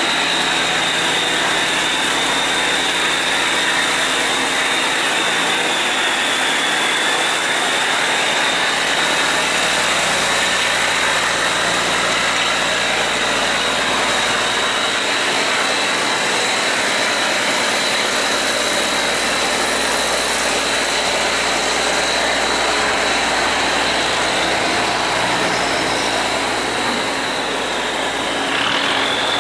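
Tugboat diesel engine running steadily under load, with a thin, steady high-pitched whine over it that rises slightly near the end.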